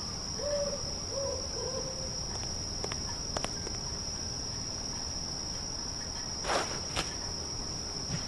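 Steady high-pitched cricket-like trill over a background hiss, with a few faint short sounds early on and scattered light clicks.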